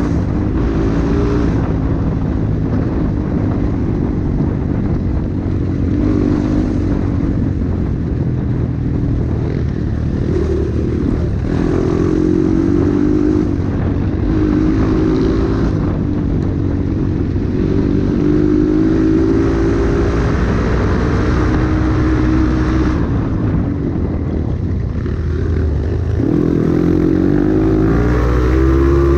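Dirt bike engine running under load on a trail ride, its pitch rising and dropping again and again as the throttle is opened and closed. A louder rev comes near the end.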